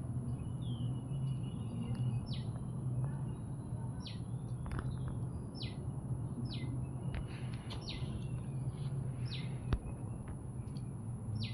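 A bird calling over and over: short whistles sliding down in pitch, every second or two, over a steady low hum and a constant thin high tone.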